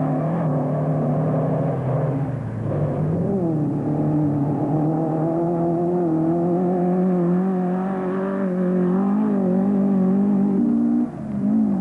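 Off-road race car engine running hard under load. Its pitch dips and climbs back about three seconds in, then drops sharply and picks up again near the end, as the throttle comes off and goes back on.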